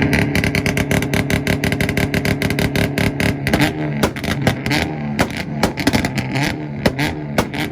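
Hyundai Veloster held on its two-step launch limiter, engine revving with a rapid stream of exhaust pops and bangs. About three and a half seconds in, the bangs thin out to a slower, spaced crackle.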